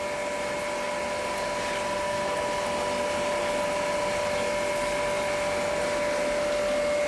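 Small electric water pump running with a steady whine over the sound of circulating, splashing water in an aquaponics fish tank and fountain.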